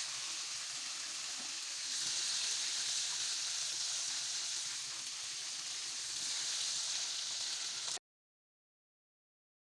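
Coated chicken pieces sizzling as they fry in hot oil: a steady hiss that stops abruptly about eight seconds in.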